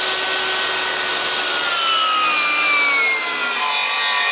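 Circular saw crosscutting a 2x8 board. The motor's steady whine drops gradually in pitch as the blade comes under load partway through. The blade is set too shallow to cut all the way through the board.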